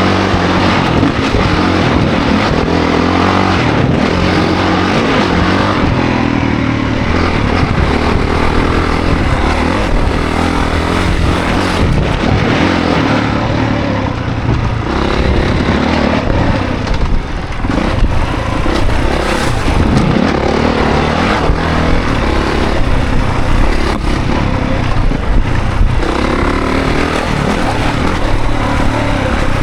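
2024 Honda CRF450 dirt bike's single-cylinder four-stroke engine under riding load, revving up and down with the throttle and through gear changes.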